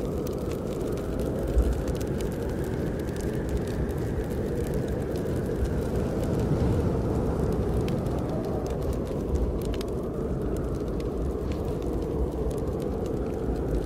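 Snowstorm wind blowing in slow swells that rise and fall every few seconds, with a wood fire in a fireplace crackling in scattered small pops over it. A single soft thump comes about a second and a half in.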